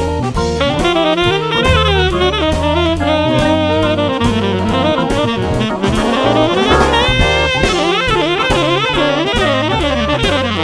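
Jazz recording with a saxophone lead bending and gliding over a walking bass line and a steady drum-kit beat.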